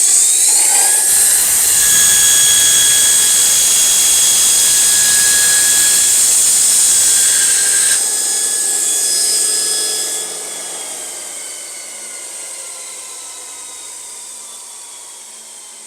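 Burr King 760 belt grinder running while a steel lawnmower blade is ground against the belt in a single pass, a loud hiss with a steady whine. About ten seconds in the level drops, and the motor's whine slowly falls as the grinder is switched off and coasts down.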